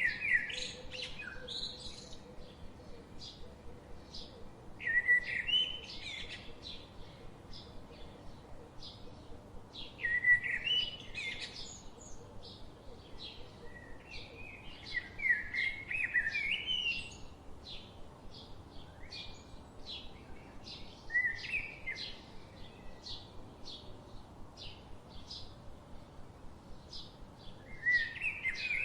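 Songbirds singing: one bird repeats a short, warbling song phrase about every five seconds, while another keeps up a steady run of short high chirps, two or three a second, throughout.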